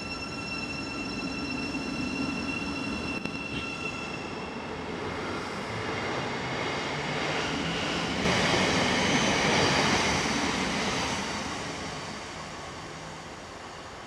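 Thameslink Class 700 electric train departing and accelerating away. A steady electric whine fades out after about four seconds. The running noise of the passing carriages then grows, is loudest about two-thirds of the way through, and dies away as the train leaves.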